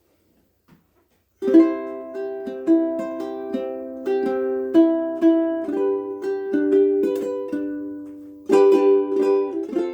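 KoAloha ukulele being played. After about a second and a half of quiet, plucked melody notes ring over chords, with a louder strummed chord near the end.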